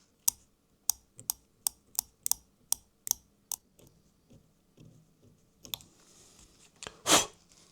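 Small plastic parts of a model locomotive clicking sharply as the front bogie is handled and fitted: about nine clicks, roughly three a second, then a lone click and a short rush of noise near the end.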